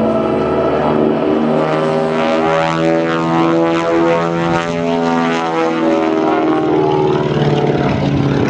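Beech 18's twin radial engines running loud through an aerobatic pass, a dense propeller drone whose tones slowly drift and beat against each other.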